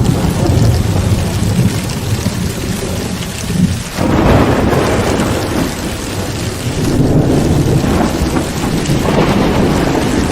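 Heavy rain pouring steadily under rolling thunder. A new roll of thunder swells up about four seconds in.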